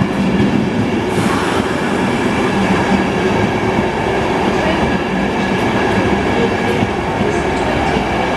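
Train running: a loud, steady rumble with several steady tones held throughout.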